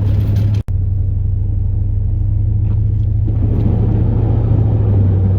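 Steady low drone of a 2002 Chevrolet Silverado plow truck's 8.1-litre big-block V8 and road noise, heard from inside the cab while driving. The sound cuts out for an instant less than a second in.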